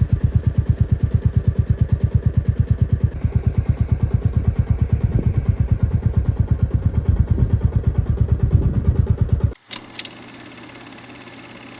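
Motorcycle engine running with a steady, evenly pulsing exhaust beat of about eight pulses a second. About nine and a half seconds in it cuts off abruptly to a quieter steady background, with a single click just after.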